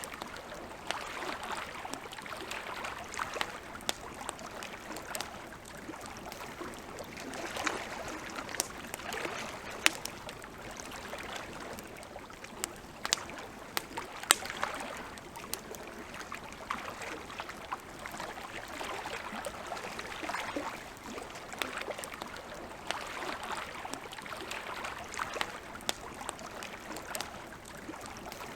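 Campfire crackling, with scattered sharp pops from the burning wood, over gentle water lapping at the lake shore in soft swells every second or two.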